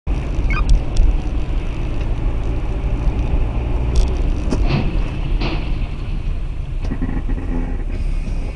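Car dashcam recording of driving: steady low rumble of road and engine noise, with a few sharp clicks or knocks about one second in and again about four seconds in.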